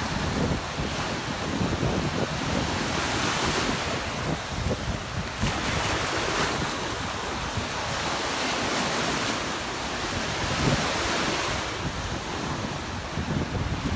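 Gulf of Mexico surf breaking and washing up the beach in repeated swells, with wind buffeting the microphone.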